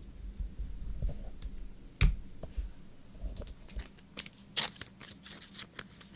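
Trading cards being handled on a table: one sharp knock about two seconds in, then a run of quick, scratchy clicks and rustles as cards are slid and flicked.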